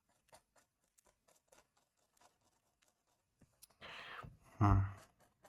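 Faint, short drawing strokes scratching on a page. Near the end come a breath out and a short, low vocal sound from the person drawing, such as a hum or grunt, which is the loudest thing.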